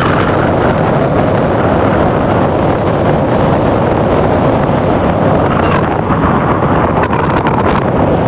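An engine running steadily, with wind rushing over the microphone.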